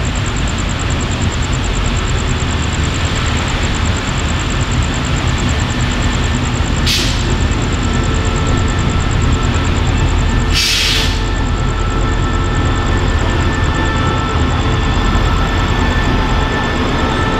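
CRRC CDA5B1 diesel-electric locomotive and its train pulling in, a steady low rumble of engine and wheels, with two short hisses about seven seconds in and again a few seconds later. Faint steady high tones come in during the second half as the train slows.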